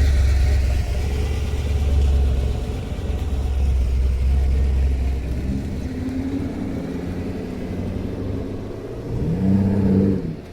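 Car engines driving past at low speed: a deep, heavy rumble for the first half, then another car's engine with a brief rev near the end.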